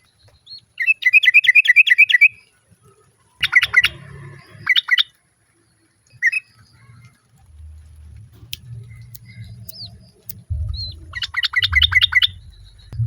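Female yellow-vented bulbul (trucukan) calling in three bursts of quick, bubbly repeated notes, a call used to summon a male, with a few short single whistles from other birds in between. A low rumble runs under the second half.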